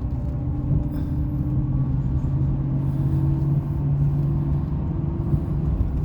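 Chevrolet Silverado 2500 HD pickup's V8 engine and tyre noise while driving: a steady engine drone that edges up slightly in pitch partway through, over road rumble.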